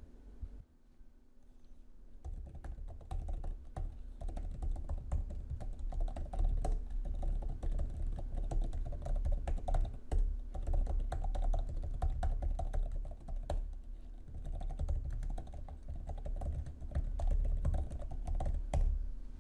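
Typing on the Magic Keyboard for iPad: a quick, dense run of key clicks that starts about two seconds in and keeps going.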